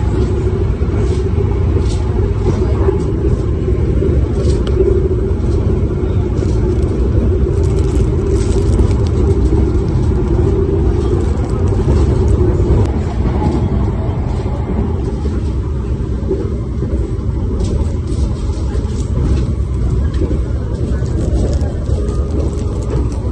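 Steady low rumble of the Argo Muria passenger train running, heard inside the carriage. Light crinkling and clicks come through now and then from the cardboard meal box and plastic food wrappers being handled.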